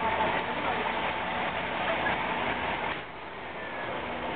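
Diesel engine of a KrAZ-255B heavy truck running steadily, a V8 (YaMZ-238); the sound drops away briefly about three seconds in, then comes back.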